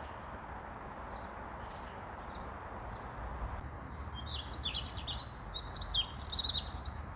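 Small songbirds chirping outdoors: a few faint chirps at first, then a rapid, busy run of high chirps in the second half.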